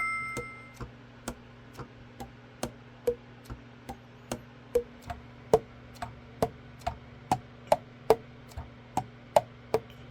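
Evenly spaced sharp clicks, a little over two a second, over a faint steady low hum.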